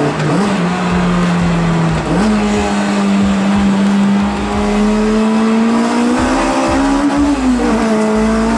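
Honda Integra Type R DC5's K20A inline-four engine pulling steadily while being driven, heard from inside the car. Its pitch steps up twice in the first couple of seconds, climbs slowly, then eases back down near the end.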